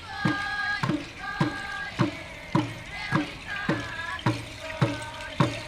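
Group singing of a traditional song over drums beaten in a steady beat, a little under two strikes a second.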